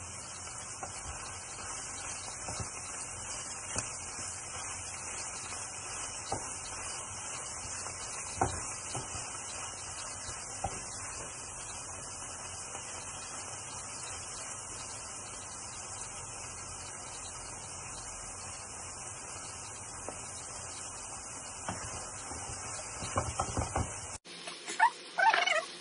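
Minced beef and onions sizzling in a frying pan, a steady hiss, with occasional light knocks and scrapes of a wooden spatula stirring against the pan. Near the end the sizzle cuts off abruptly and a few sharp clicks and knocks follow.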